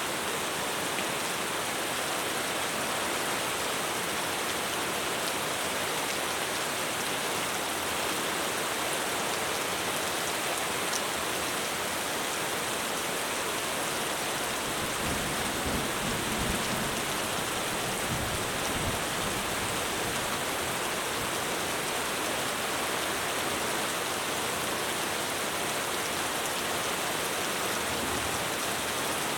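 Heavy rain pouring steadily on a roof, with a low rumble of thunder swelling briefly about halfway through.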